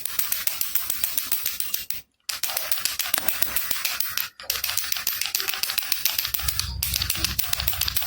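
Baby rattle (jhunjhuna) shaken steadily: a dense, fast clicking of the pieces inside, stopping briefly twice, about two seconds and about four seconds in. A low rumble joins it near the end.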